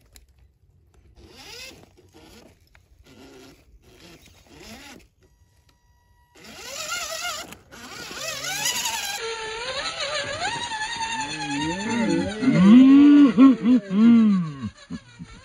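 Electric motor and gears of an RC crawler truck whining, the pitch rising and falling with the throttle. It starts about six seconds in and ends with a run of quick throttle blips.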